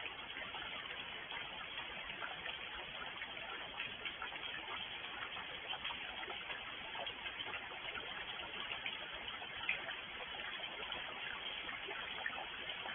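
Steady rain falling, an even hiss dotted with many small ticks of individual drops, one louder tick about ten seconds in.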